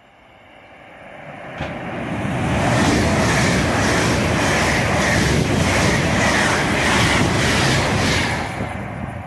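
LNER Azuma (Class 801) electric train passing through the station at speed. The rush of wheels on rail and air builds as it approaches, then holds loud and steady with a regular beat about twice a second as the carriages go by, and eases off near the end.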